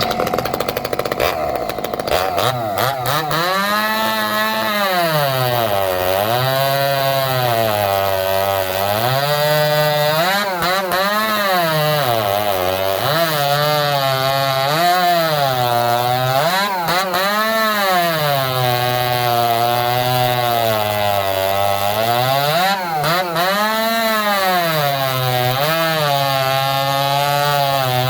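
Ported 45cc Chinese Red Max-clone two-stroke chainsaw with an expansion-pipe exhaust running loud, its engine pitch rising and falling over and over every couple of seconds as the revs climb and drop.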